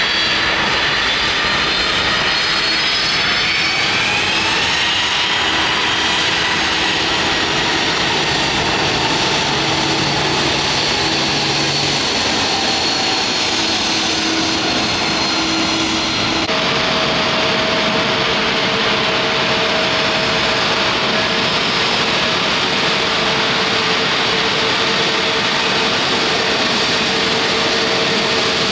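Airliner turbine engines running loud and close, a steady roar with whining tones that rise in pitch over the first few seconds. About halfway through it switches abruptly to another steady engine roar with a lower hum.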